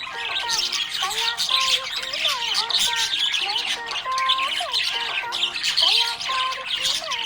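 Budgerigars chirping and chattering without a break: a dense run of quick high chirps, with short warbled notes that slide up and down in pitch.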